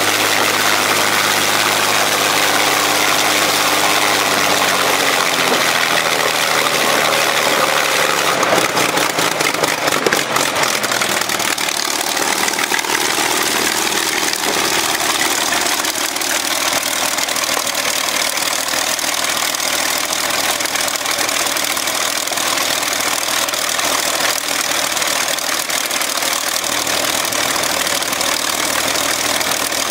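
Rolls-Royce Merlin 500-29 27-litre supercharged V12 aero engine running on a test stand; its speed drops over several seconds and it settles to a steady idle.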